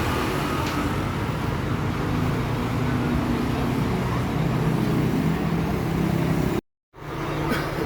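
Diesel engine of a Scania three-axle bus running steadily with a deep rumble. The sound breaks off for a moment near the end, then resumes.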